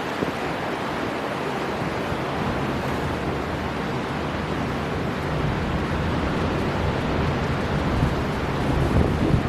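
Storm wind and surf on the sea shore: a steady rush of wind and breaking waves, with gusts buffeting the microphone, the strongest near the end.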